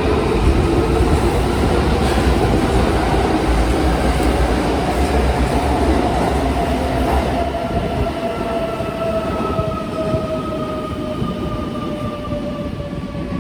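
Kintetsu electric train pulling into the platform and slowing, its motor whine gliding steadily down in pitch over a rumble of wheels on rail. The sound fades gradually as the train slows.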